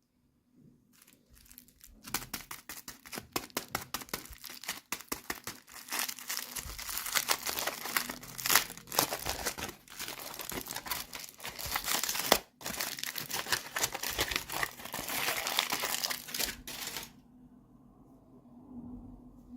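Packaging being crinkled and torn open by hand: a long run of dense, irregular crackling and rustling that stops suddenly near the end.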